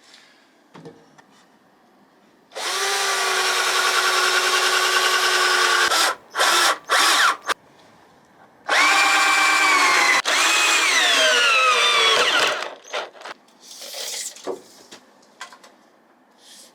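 Power drill running in two long bursts of about three and a half seconds each, with a few short blips of the trigger between them. Its pitch sags and drops near the end of the second burst as the motor comes under load.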